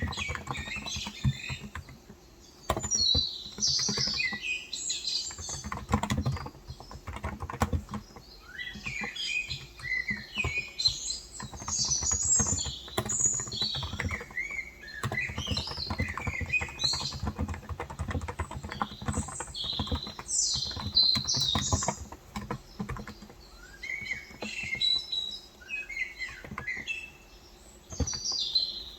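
Typing on a COX Endeavor electro-capacitive keyboard with 35 g switches: irregular runs of soft key clicks with short pauses. Small birds chirp over it throughout in bursts of quick high notes.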